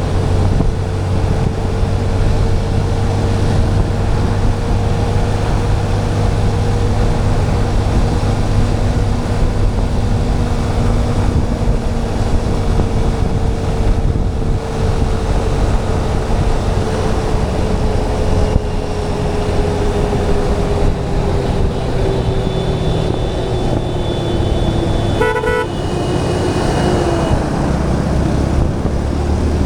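Motorcycle engine running steadily while riding in traffic, with wind and road noise. Vehicle horns honk in the last several seconds, one in a quick series of short beeps.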